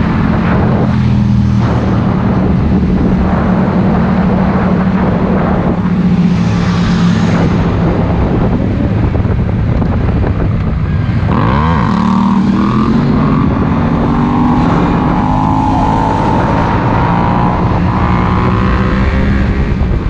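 Yamaha MT-10's crossplane inline-four engine with an Akrapovič silencer, running on the move at steady revs, then about halfway through the pitch dips and climbs steadily as the bike accelerates.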